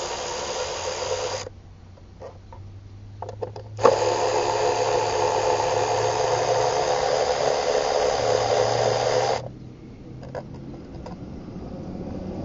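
A power tool with a 10 mm socket running steadily in two long runs, one ending about a second and a half in and another from about four to nine and a half seconds, with light clicks of socket and metal in between.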